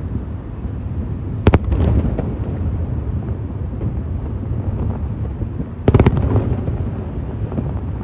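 Aerial fireworks display: a steady low rumble, broken by two sharp shell bursts, about a second and a half in and again about six seconds in, each followed by brief crackling.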